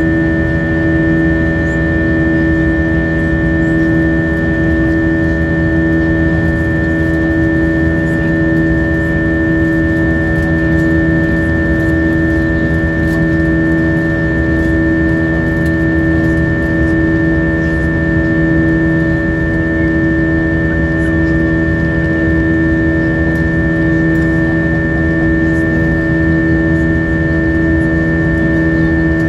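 Airbus A320's IAE V2500 turbofan engines heard inside the passenger cabin, a steady engine drone with several held whining tones over a rushing noise, level and unchanging.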